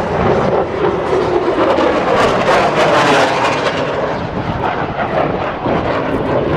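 An aircraft passing by, with a loud rush of engine noise that swells to its loudest about three seconds in and then fades.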